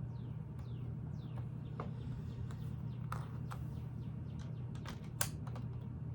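Lego pieces being handled and clipped together: scattered small plastic clicks and taps, the sharpest about five seconds in, over a steady low hum. A few short falling squeaks come in the first second and a half.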